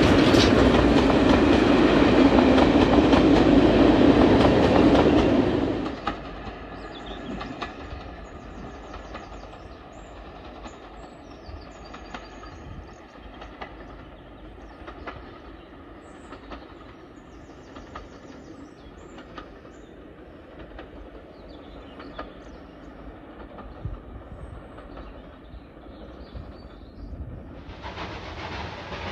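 Steam-hauled passenger train's coaches running past below, wheels clattering over the rail joints. After about five seconds the sound drops away sharply to a faint distant running as the train recedes, and near the end a steady hiss cuts in.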